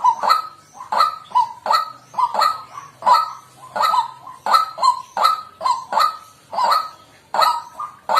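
White-breasted waterhen calling: a harsh, nasal 'kwak' repeated steadily about twice a second.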